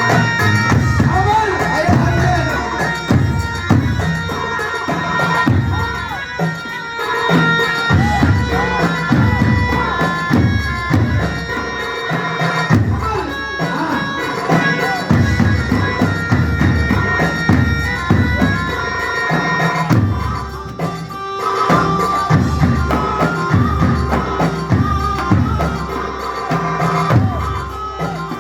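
Traditional Arab wedding music: a reedy wind instrument plays a sustained melody over steady drum beats.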